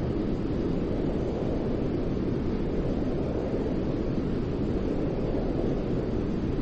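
Steady white-noise track for soothing a baby to sleep: an even, unbroken rush, deep rather than hissy, that never changes in level.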